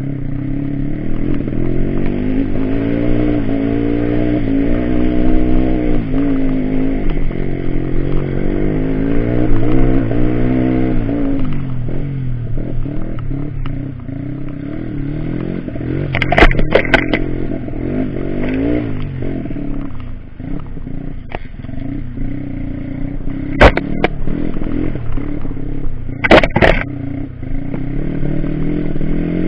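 Off-road trail motorcycle engine running and revving, its pitch rising and falling again and again, with a few sharp knocks about halfway through and near the end.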